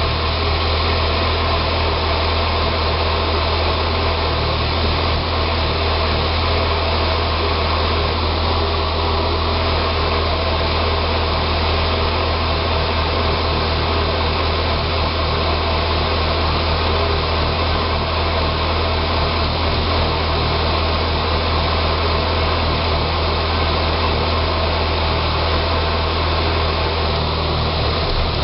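2006 Saab 9-3 2.0T's turbocharged four-cylinder engine running at a steady idle. The idle is rough after an engine rebuild, which the owner thinks is possibly vacuum-related.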